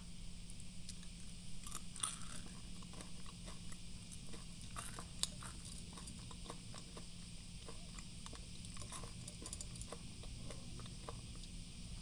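Meiji Coffeebeat coffee-bean-shaped chocolates being crunched and chewed: faint crisp crackles, thickest in the first half and thinning out later, with one sharper click about five seconds in. The texture is super crunchy.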